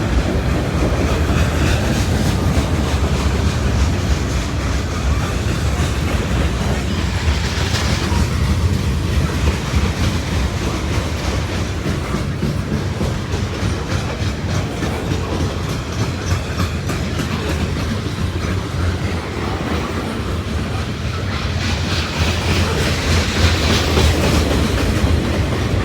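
Long CSX freight train passing close by: the steady rumble of freight cars and the rhythmic clickety-clack of their wheels over rail joints, with faint wheel squeal rising and fading about eight seconds in and again near the end.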